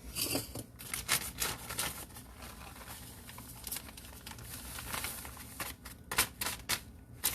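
A bag of powdered sugar crinkling and rustling as it is handled and sugar is taken out of it, with irregular crackles, a few louder ones about a second in and around six seconds in.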